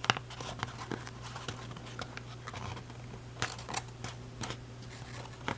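Origami paper crinkling and crackling in many short, irregular snaps as its creases are pinched and sunk by hand, over a steady low hum.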